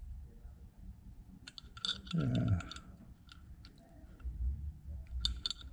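Light metallic clicks and taps of a hand tool on the small nut, washers and stud of a Rolls-Royce oil filler cap as the nut is tightened, in clusters about one and a half seconds in and again near the end. A short low grunt comes about two seconds in.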